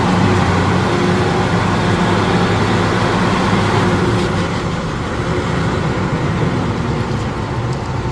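Heavy truck's diesel engine running hard under load, steady and loud, easing a little about halfway through.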